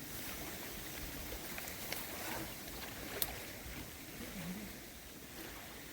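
Wind rumbling on the microphone over small waves washing at the shore, with a sharp click about three seconds in.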